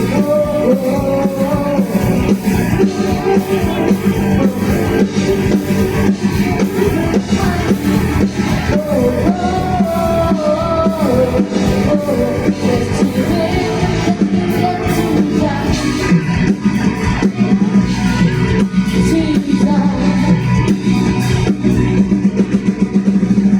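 A live young student band playing a rock-style song with a lead singer over electric guitar, bass and drum kit.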